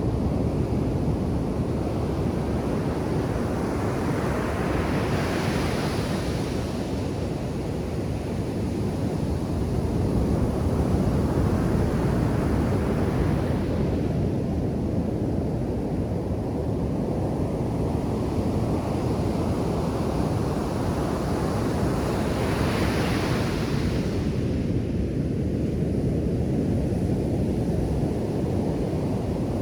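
Ocean surf breaking on a beach: a steady low rumbling wash of waves, with a louder hissing rush of breaking surf about five seconds in and again about two-thirds of the way through.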